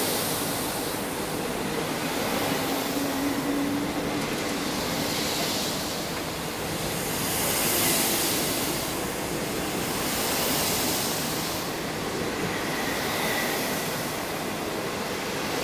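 25T passenger coaches of an intercity train running past at speed, a steady rush of wheel-on-rail noise that swells and fades every two to three seconds.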